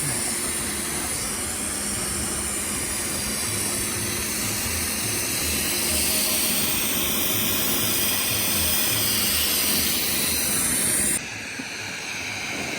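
Steady rush of wind on the microphone as a snowboard slides downhill over snow. The high hiss drops away abruptly about eleven seconds in.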